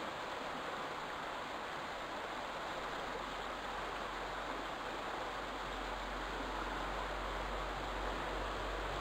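A steady, even rushing hiss with no distinct calls or knocks.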